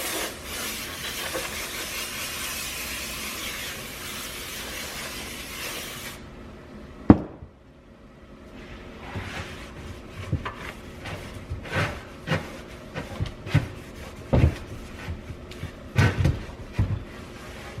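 Aerosol spray hissing steadily as the inside of an oil pan is sprayed out for cleaning, cutting off suddenly about six seconds in. A sharp click follows, then scattered knocks and rubbing.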